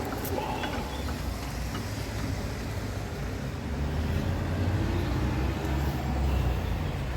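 Low rumble of passing road traffic, swelling about halfway through, with a few faint clicks.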